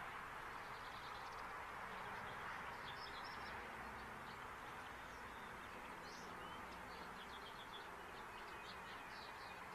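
Faint, scattered high chirps from birds over a steady background hiss.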